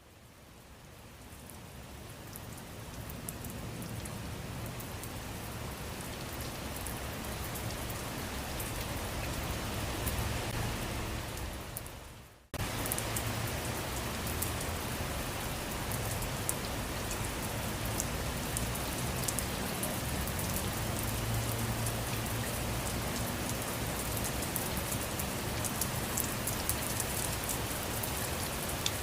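Steady rain falling on surfaces, an even hiss with scattered sharp drop ticks. It fades in over the first few seconds, sags about twelve seconds in, cuts out for an instant, then comes straight back at full level and holds steady.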